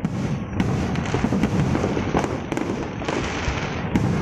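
Fireworks going off in a dense, continuous barrage: many overlapping crackles and pops over a low rumble of bursts.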